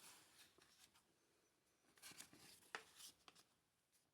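Faint rustling and handling of paper documents in a small room, with a sharp click about three seconds in.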